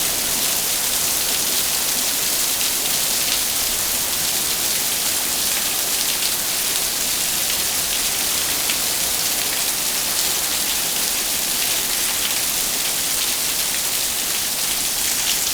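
Rain falling steadily: a dense, even hiss with faint ticks of individual drops hitting surfaces.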